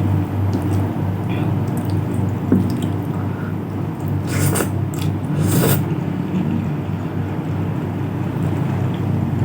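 Close-miked eating sounds: chewing with a few brief wet mouth noises around the middle, over a steady low hum.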